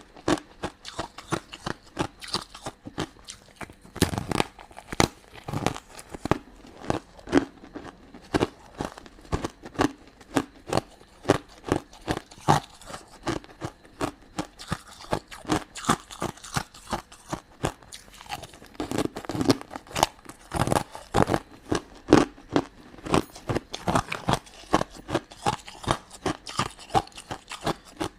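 Close-miked chewing of crunchy crystal candy: a dense run of crisp crunches, several a second, with louder bites a few seconds in and again past the middle.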